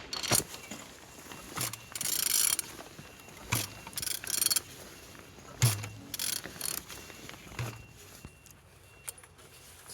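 Engine HG08CKD being turned over by hand: a knock with a low thud roughly every two seconds, with short rasping mechanical bursts in between. The engine turns freely, which is taken as a sign it is in running order.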